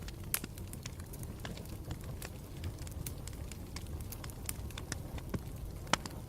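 Campfire burning with a steady low rumble and irregular sharp crackles and pops of burning wood, a louder pop just before the end.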